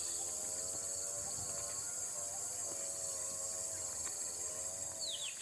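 Steady, high-pitched insect chorus with a faint wavering hum underneath. Near the end, a couple of short, quick, falling bird chirps.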